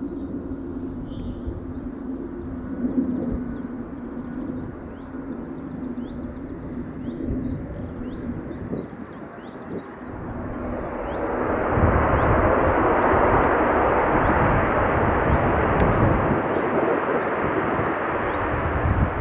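Jet airliner engines humming, then a loud jet roar that swells from about halfway through and holds as the aircraft passes on the runway. Birds chirp faintly in the background.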